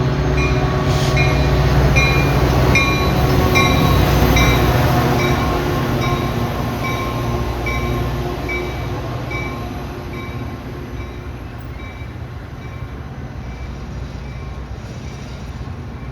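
Commuter train pulling into the station: the diesel locomotive's rumble is loudest in the first few seconds and fades as the train slows, over a bell ringing steadily about twice a second.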